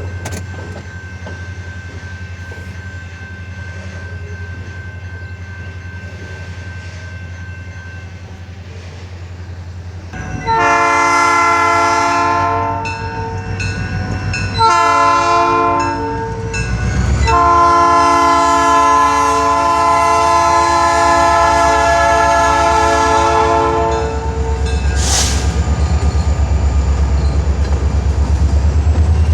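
Diesel freight locomotive of a CN train rumbling as it approaches, then sounding its air horn in three blasts, the last one the longest. The locomotive then passes close with a louder, rhythmic rumble.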